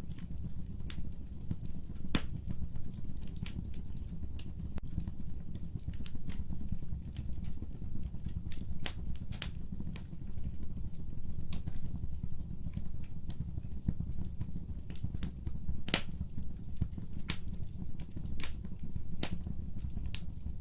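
Fire burning in a fireplace: a steady low rumble of flames with irregular sharp crackles and pops, the loudest pop about sixteen seconds in.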